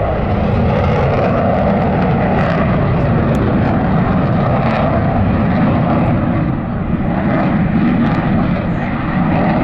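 Fighter aircraft flying past: a loud, steady engine roar that dips slightly about seven seconds in.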